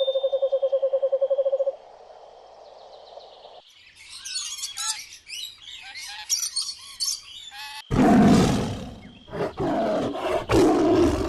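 A fast-pulsing buzzy call ends shortly after the start. Next comes a few seconds of birds chirping rapidly, then a loud, rough animal roar from about two-thirds of the way in.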